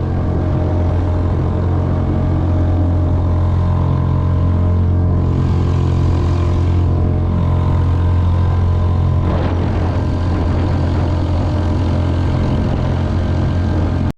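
Small boat's outboard motor running at a steady speed, a loud, even low hum with overtones while the boat is underway.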